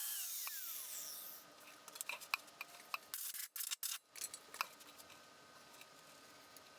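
A high-pitched power tool spins down and stops within the first second or so, then come scattered clicks, scrapes and knocks of metal being handled during rust cutting on car bodywork.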